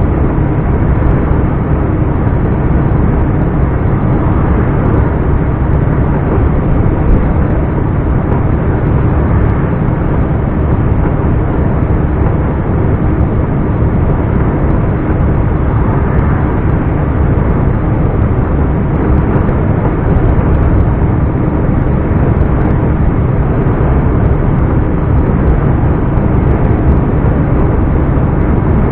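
Scania R420 truck's straight-six diesel engine running steadily while driving, a loud, even drone with a low engine hum and road rumble.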